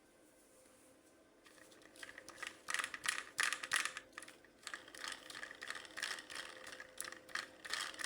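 Hands handling plastic toys and packaging during an unboxing: after a quiet start, an irregular run of small clicks, rattles and scrapes.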